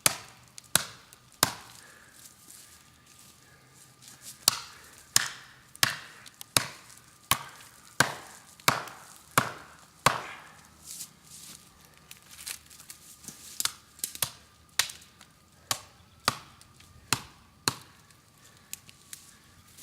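CPM 3V steel golok chopping into a tree: a long run of sharp blade strikes at a steady pace of about one every 0.7 seconds, with a pause of about three seconds near the start before the chopping resumes.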